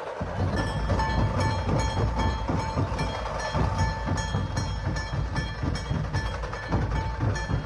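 Mumbai suburban electric local train running: a steady low rumble and rattle from the carriage, with a steady high whine over it.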